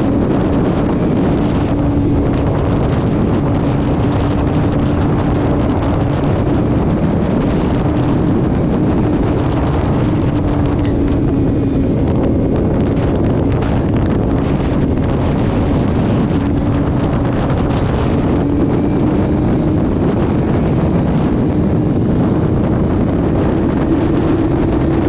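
Vehicle cruising at highway speed: loud, steady rush of wind and road noise over an engine drone that drifts slowly up and down in pitch.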